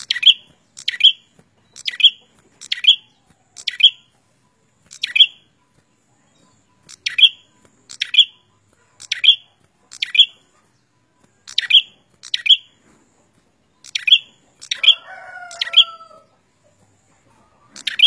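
Caged prenjak calling gacor, repeatedly and vigorously: short, sharp, high chip notes about one a second, often in quick pairs. A rougher, lower call breaks in near the end.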